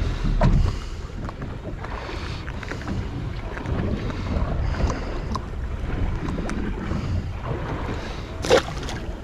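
Wind buffeting the microphone over low sea noise on a boat at sea, with small scattered clicks and a single sharp knock near the end.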